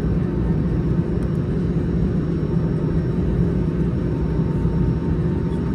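Steady low rumble inside the cabin of an Airbus A320 on the ground after landing, with no change in pitch or level.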